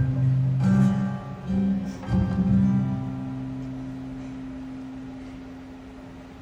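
Acoustic guitar strumming the closing chords of a song: a few strokes, then the last chord left to ring and slowly fade out.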